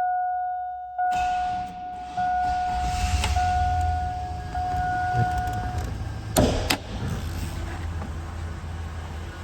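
Cold start of a 2000 Chevrolet Silverado 1500: about a second in the starter cranks and the engine catches, then settles into a steady idle. A dash warning chime holds a steady tone over it until a little past halfway. Two sharp knocks come about two-thirds of the way in.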